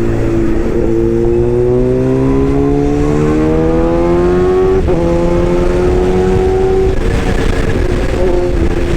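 Excavator running: a steady low hum under a pitched whine that slowly rises, drops back about five seconds in, then rises again.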